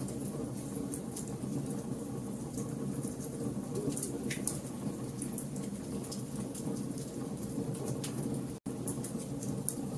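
Campfire burning: a steady low rumble of flames with scattered sharp crackles and pops from the burning logs. The sound cuts out completely for an instant near the end.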